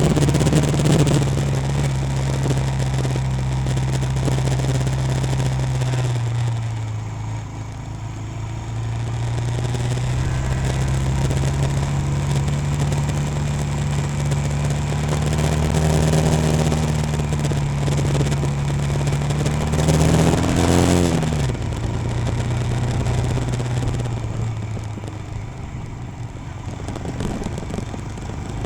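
Royal Enfield Himalayan single-cylinder motorcycle engine running steadily while riding. Its note rises about two-thirds of the way through, then drops off sharply, as with a rev followed by a gear change or closing the throttle.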